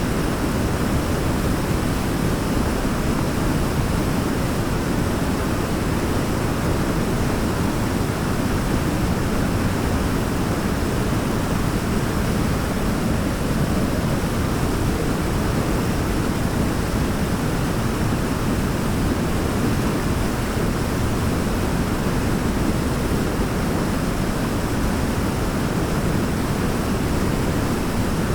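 Waterfall rushing: a steady, even wash of water noise, heaviest in the low end, with no separate splashes or changes.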